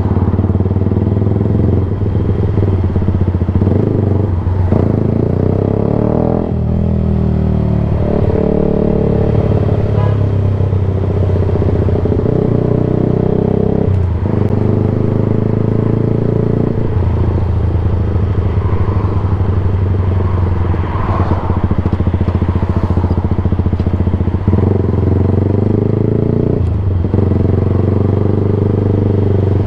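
Yamaha YZF-R sportbike engine running loud through a Black Widow exhaust can with no baffle and no catalytic converter, under way on the road. The revs climb and drop back sharply several times as it shifts through the gears.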